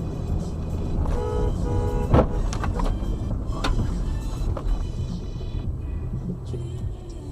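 Car traffic running, with a car horn sounding in two short blasts about a second in, then a sharp bang just after two seconds.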